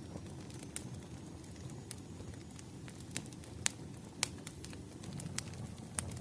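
Wood fire crackling: a steady low rumble with sharp pops about once a second, the two loudest a little past the middle.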